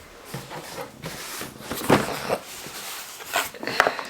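Packaging being handled at the start of an unboxing: rustling with a few sharp knocks and clicks, the loudest about two seconds in and two more near the end.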